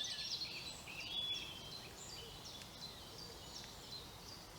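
Small birds singing: quick chirps and short whistled phrases, busiest in the first second or so, then sparser scattered notes.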